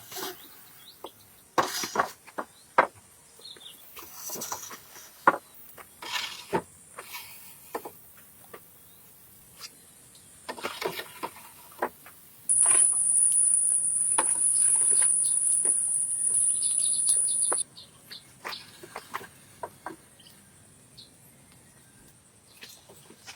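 Scattered short knocks and clicks, with a loud, steady, high-pitched insect buzz that starts abruptly about halfway through and stops about five seconds later.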